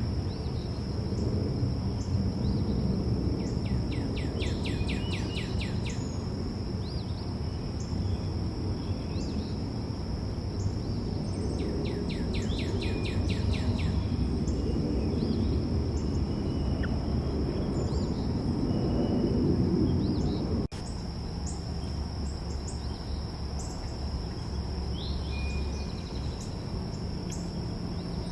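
Backyard ambience: birds giving rapid trills of repeated notes three times and scattered short chirps over a steady high insect drone, with a low rumble of background noise underneath that is the loudest part. The sound breaks off abruptly about two-thirds of the way through and resumes.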